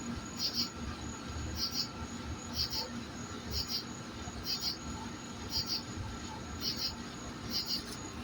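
An insect chirping at an even pace, about one short, high double chirp a second, over a low rumble.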